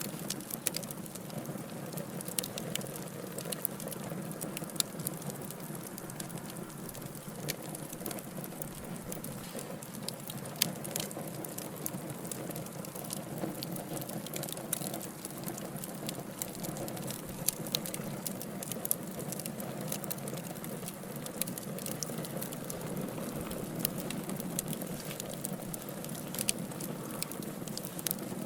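Wood fire of burning logs, crackling: frequent sharp crackles and pops, a few louder than the rest, over a steady low rush of the flames.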